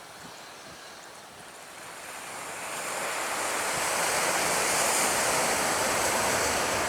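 Jet aircraft engine noise swelling over about two seconds as the aircraft approaches, then holding as a loud, steady rushing roar with a high hiss.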